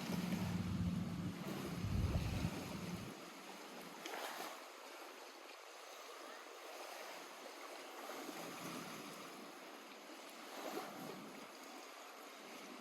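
Small waves lapping at a lakeshore, a soft, even wash of water with a few slightly louder laps. A low rumble sits under it for the first three seconds, then drops away.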